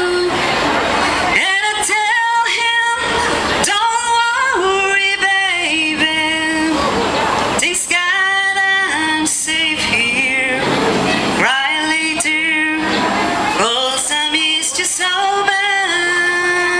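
A song with a female lead voice singing phrases of long held notes over a musical backing.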